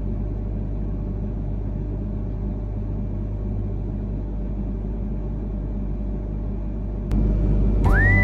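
Steady low rumble of an E3-series Shinkansen heard from inside the passenger cabin as the train rolls along the platform into a station. Near the end, background music comes in with a whistled melody that slides up into a long held note.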